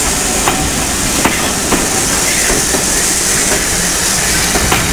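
Steam train's passenger coaches rolling past, their wheels clicking now and then over rail joints, over a steady high hiss.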